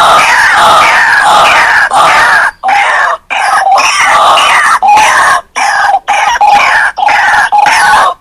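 White-breasted waterhen (ruak-ruak) calling loudly: a fast run of repeated notes, each falling in pitch, broken by several brief gaps.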